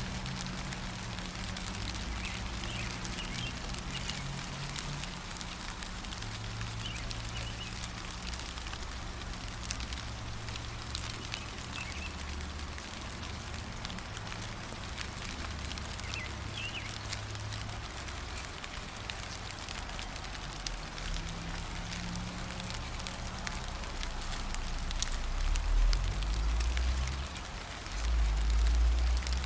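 Steady rain, its drops pattering densely, with a few short bird chirps now and then. A low rumble underneath swells louder twice near the end.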